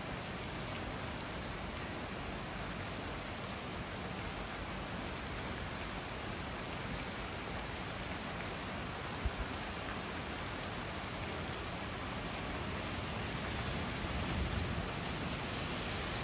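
Steady heavy rain falling on trees and a wet street, an even hiss. A single short thump about nine seconds in, and a low rumble growing near the end.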